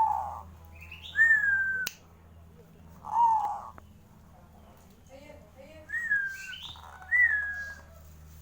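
Zebra dove (perkutut) calling: a series of short clear calls, each sliding down in pitch, with a sharp click about two seconds in.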